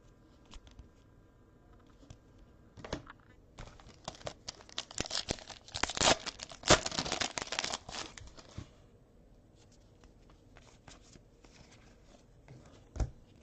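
Foil trading-card pack being torn open and crinkled by hand, with the loudest tearing and crinkling in the middle few seconds, then a few light clicks and a sharp tap near the end.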